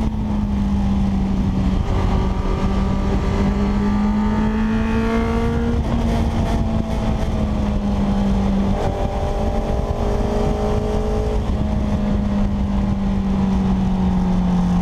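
Motorcycle engine running at steady road speed, heard from a tank-mounted camera over a constant rush of wind; the engine note shifts pitch slightly a few times and breaks briefly about nine seconds in.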